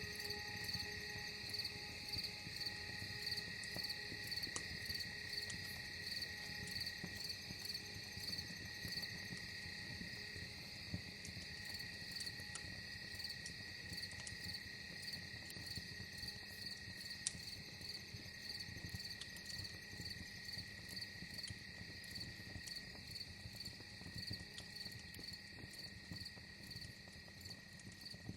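Wood fire crackling with scattered sharp pops, over a steady, evenly pulsing chirp of insects such as crickets.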